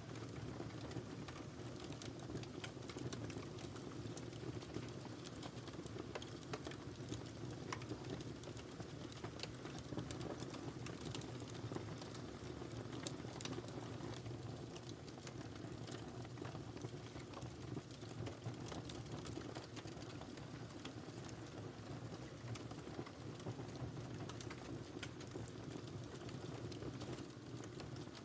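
Wood fire burning in a fireplace: irregular small crackles and pops over a steady low rumble of the flames.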